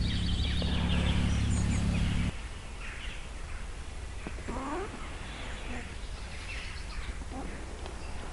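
A steady low hum that cuts off suddenly about two seconds in, followed by birds calling and chirping, with a few short rising calls.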